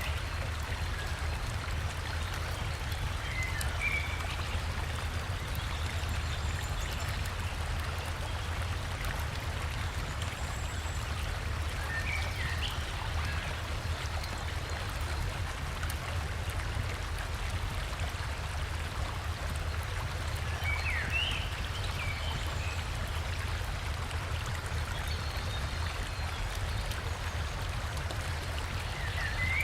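Steady rush of a river and small waterfall with a deep low rumble. A forest bird gives a few short, high chirps several seconds apart.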